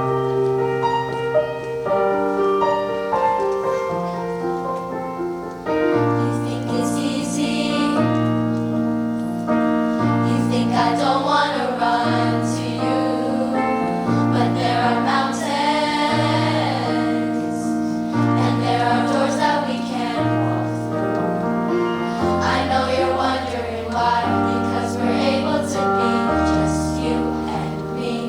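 Middle school choir singing a song with a piano-led instrumental accompaniment and a steady, repeating bass line.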